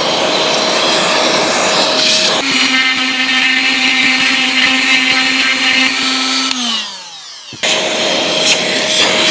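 Dremel rotary tool running at high speed, grinding cured JB plastic bond filler off a steering wheel rim. Its whine shifts pitch a couple of seconds in, then winds down as it is switched off about six and a half seconds in, and starts up again about a second later.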